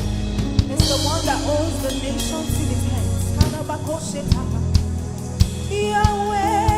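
Live gospel worship band playing a slow song with bass, drum kit and keyboard, with a singer's voice coming in near the end.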